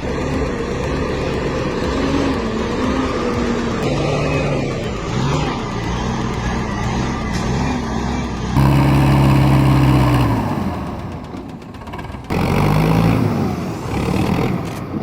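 Heavy diesel truck engines labouring under load, the engine note rising and falling. The sound changes abruptly twice, about two-thirds of the way in and again near the end, as one clip cuts to the next.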